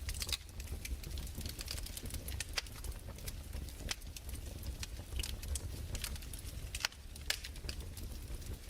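Fireplace crackling: irregular sharp pops and snaps, a few a second, over a steady low rumble.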